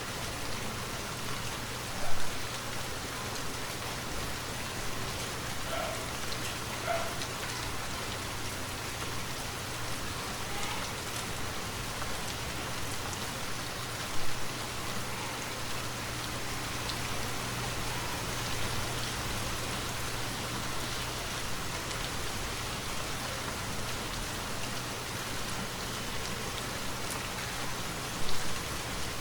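Steady rainfall, an even hiss of drops, with three brief louder knocks: about two seconds in, midway and near the end.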